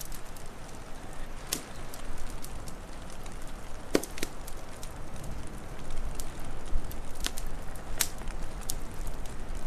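Wood fire crackling: scattered small ticks and a few sharp pops over a steady low rumble.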